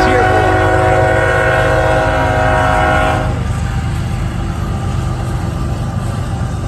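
CSX freight locomotive's air horn sounding one long chord that cuts off about three seconds in, over a steady low rumble that continues after it.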